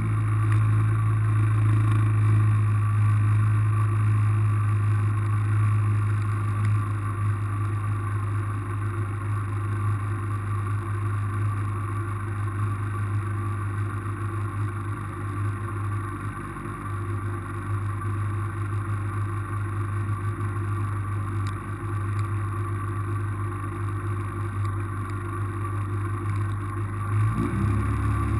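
Car engine idling steadily with a low, even hum, with a brief rise and fall in pitch near the end.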